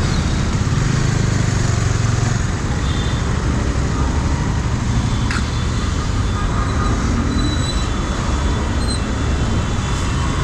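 KTM Duke 250 single-cylinder motorcycle engine running steadily in city traffic, with road and wind noise and faint vehicle horns now and then.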